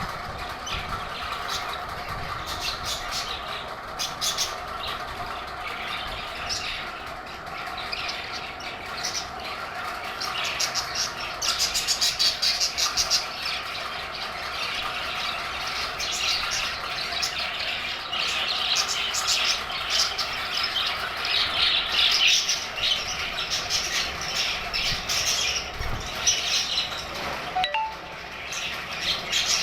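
A group of budgerigars chattering continuously, with rapid warbles, chirps and squawks, louder in spells.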